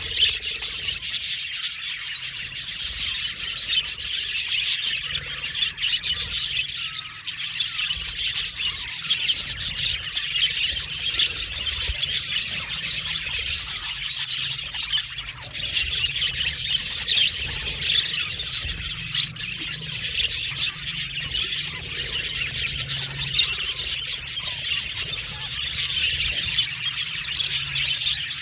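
A flock of budgerigars chirping and chattering continuously, many birds at once in a dense, unbroken warble.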